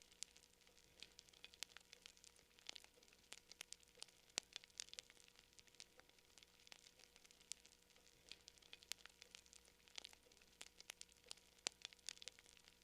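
Campfire crackling: burning wood gives faint, irregular snaps and pops, several a second, over a soft hiss.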